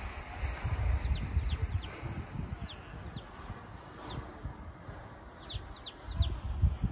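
Birds giving short, high calls that each fall in pitch, repeated irregularly and coming thickest a little after halfway. Wind rumbles on the microphone underneath, gusting hardest about a second in and again near the end.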